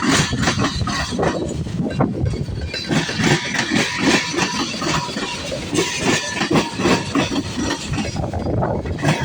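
Long CSX freight train rolling past, its wheels clattering over the rails in a steady run of irregular clicks and knocks.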